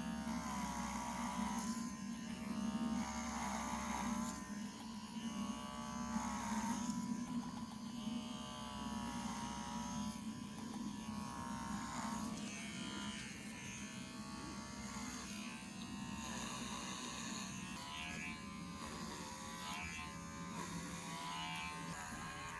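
Electric hair clippers, a small-animal clipper rather than a horse clipper, buzzing steadily as they cut through a horse's thick hair crusted with rain-rot scabs.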